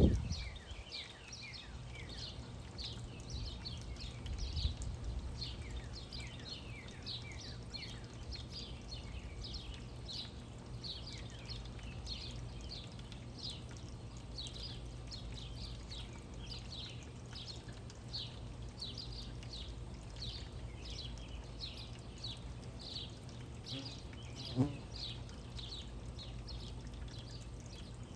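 Small birds chirping over and over, short high downward chirps at about two or three a second, over a steady low hum. A single sharp knock sounds near the end.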